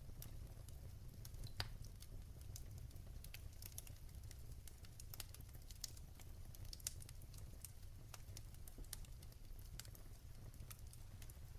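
Wood fire crackling in a fireplace: irregular small pops and ticks over a low steady rumble, with one louder pop about a second and a half in.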